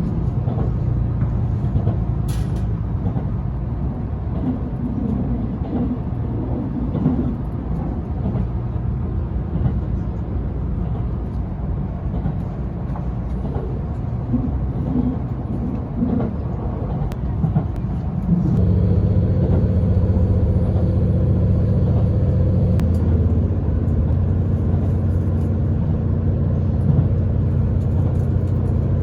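Cabin noise aboard a JR limited express Nanki diesel train: a steady rumble of wheels on rail. About two-thirds of the way through, the train's engine note steps up into a louder steady drone with several held tones, which shift a little a few seconds later.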